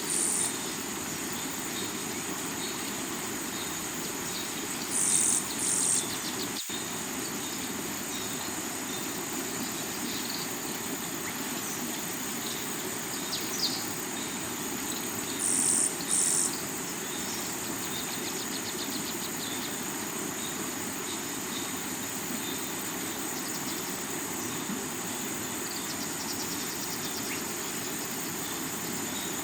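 Steady rush of water over the rocks of a river, with a high, even drone of insects above it. A bird gives short paired calls three times: at the start, about five seconds in and about fifteen seconds in.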